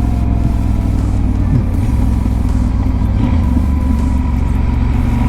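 Yamaha Super Ténéré's parallel-twin engine running steadily under way, with wind and road noise.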